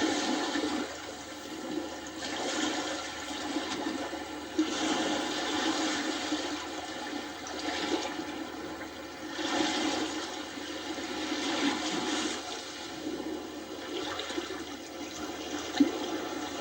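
Small sea waves washing onto a stony beach, the rush of water swelling and falling back every two to three seconds.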